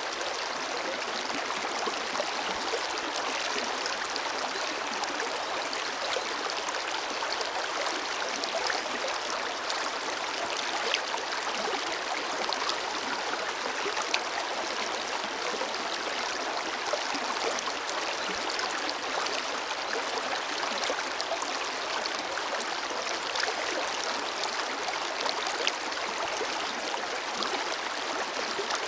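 Forest river flowing steadily over rocks, a constant rushing with small splashes and gurgles, and little deep rumble.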